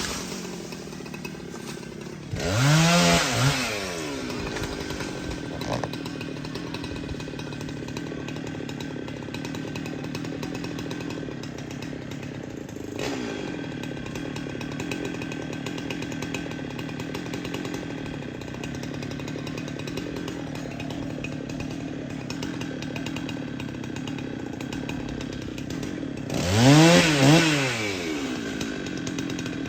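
Two-stroke chainsaw idling steadily, revved up briefly and let back down twice: about two and a half seconds in and again near the end.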